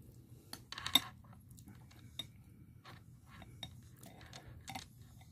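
Close-up mouth sounds of a person chewing a mouthful of curry and rice: small wet smacks and clicks scattered through, with one sharp click about a second in.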